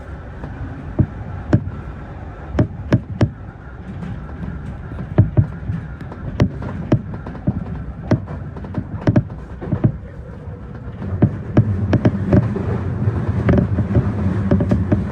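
Keio Inokashira Line electric train running, heard from the front of the train: a steady rumble with many sharp, irregular clacks and creaks. The rumble grows louder about eleven seconds in.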